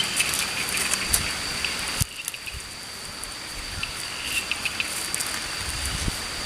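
Forest ambience: a steady high-pitched insect drone with scattered sharp crackles and clicks, and a few short bird chirps about four seconds in. The background drops in level abruptly about two seconds in.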